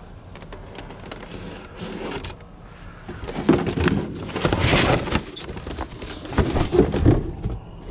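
Rubbish being shifted around inside a dumpster: rustling and clattering in two bouts, the first about three and a half seconds in and the second near the end.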